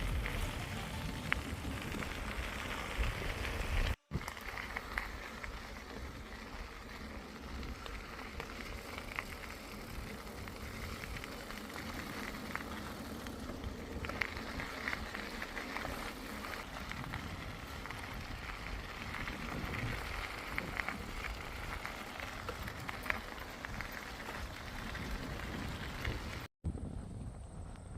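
Bicycle riding along a trail: a steady rush of tyre and trail noise with wind on the microphone and scattered small ticks and rattles. It cuts out abruptly for a split second twice, about four seconds in and near the end.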